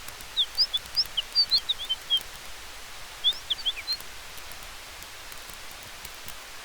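A small bird chirping in two quick bursts of short, high notes, about a second apart, over a steady hiss with faint campfire crackles.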